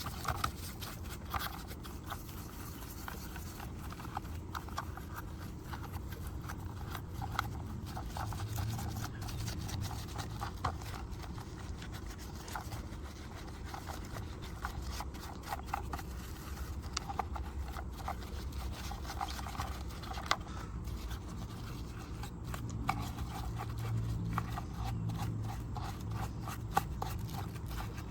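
Small brush scrubbing and scraping over a diecast model car, with many irregular scratchy strokes and little ticks over a low steady hum.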